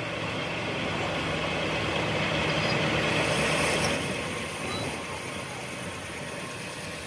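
Heavy vehicle engine running steadily, growing a little louder toward the middle.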